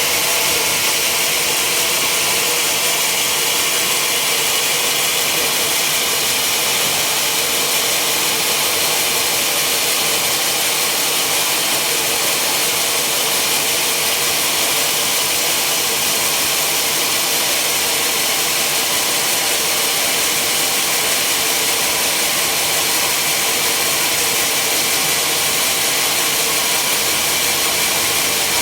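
Sawmill machinery running steadily: a loud, even, high-pitched hiss with no breaks, as of a saw running through a log.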